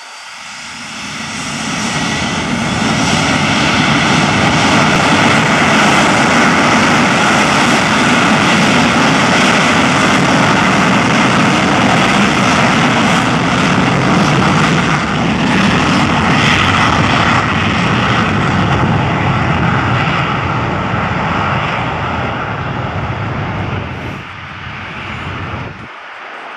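Private jet's turbofan engines at takeoff power: the roar builds over the first two seconds or so with a faint rising whine, holds loud and steady, then fades in steps near the end as the jet departs.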